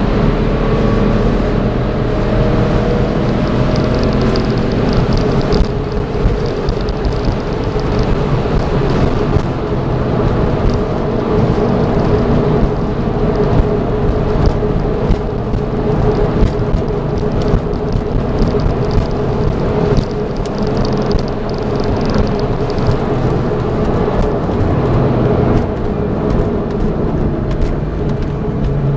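2002 Porsche 911 Turbo's twin-turbocharged flat-six running hard at track speed, heard from inside the cabin, its pitch rising and falling with the revs over steady wind and road noise.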